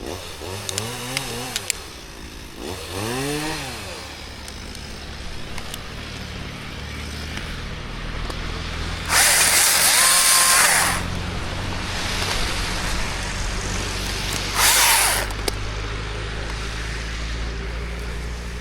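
Chainsaw revved in short rising-and-falling blips for the first few seconds, then a steady low engine drone. Two loud, harsh noisy bursts come partway through, the first about two seconds long and the second shorter.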